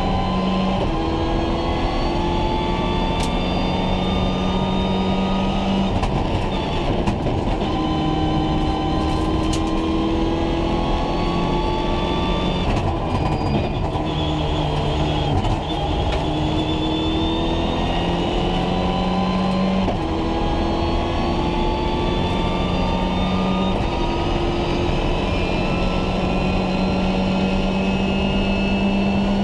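Rally car engine at full throttle, heard from inside the cockpit: its pitch climbs steadily through each gear and drops back at several gear changes, over constant road and tyre noise.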